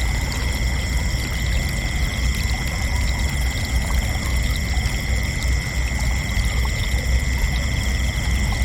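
Crickets chirping in a continuous chorus, several steady high-pitched trills at different pitches overlapping, over a steady low rumble.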